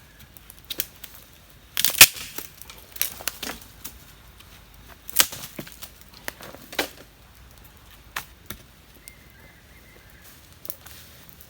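Irregular sharp knocks and snaps, the loudest about two seconds in, with a few more scattered after it.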